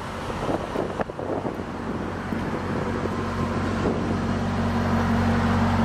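The 2009 Cadillac XLR-V's hand-built 4.4-litre supercharged Northstar V8 idling steadily, getting louder toward the end as the microphone nears the rear of the car. Wind buffets the microphone.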